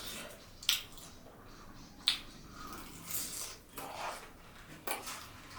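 Close-up eating sounds: three sharp crunchy bites with softer chewing and mouth noises between them.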